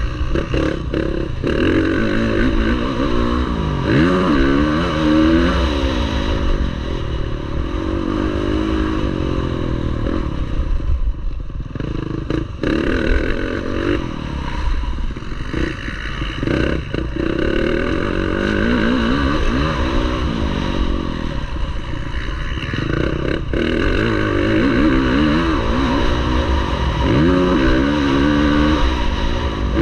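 Motocross bike engine racing under hard throttle, its pitch repeatedly climbing and dropping as the rider accelerates and backs off, with a few brief throttle-off dips.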